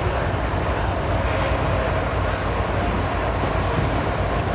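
Diesel-electric locomotive engine running steadily: a constant low rumble.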